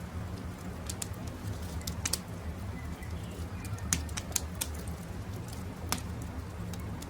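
Wood campfire crackling, with sharp pops scattered through it, the loudest about four and six seconds in, over a low steady rumble. Birds call faintly in the background.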